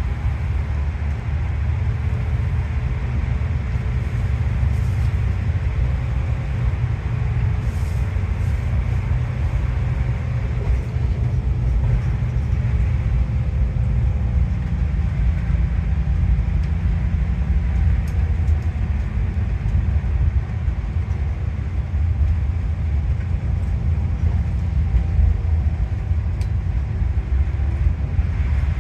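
Tateyama Highland Bus heard from inside while driving: a steady low engine and road rumble.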